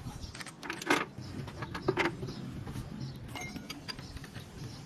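A few sharp metallic clinks and knocks of hand tools and parts, the clearest about one and two seconds in, over a low steady workshop background.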